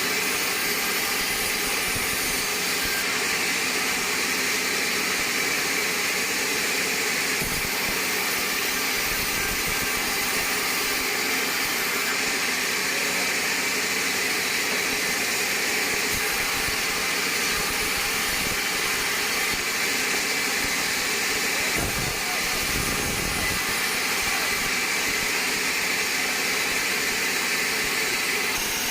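Band sawmill running: a loud, steady mechanical whir with a hissing edge.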